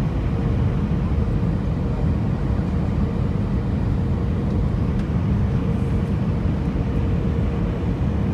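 Steady low drone inside an Airbus A319 cabin in flight: engine and airflow noise, with a faint steady hum above it.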